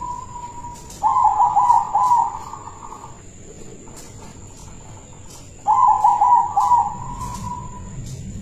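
Zebra dove (perkutut) cooing: two phrases of its rapid, warbling coo, the first about a second in and the second near six seconds, each trailing off in a held, fading note.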